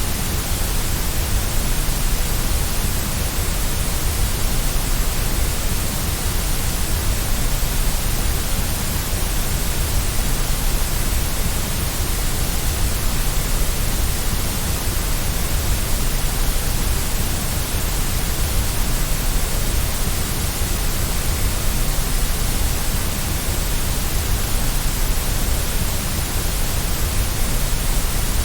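Steady synthetic white noise played as a baby sleep aid: an unchanging hiss spread across all pitches, with a strong deep rumble underneath.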